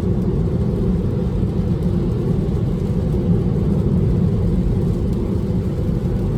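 Steady low rumble of tyre and road noise inside an electric Tesla's cabin at highway speed.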